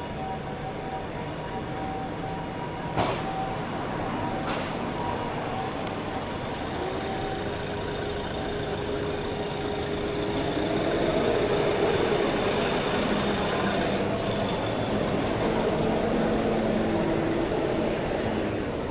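City street ambience with a motor vehicle passing. Its slowly rising motor whine and swelling noise peak in the second half. A sharp click or knock comes about three seconds in, and another a second and a half later.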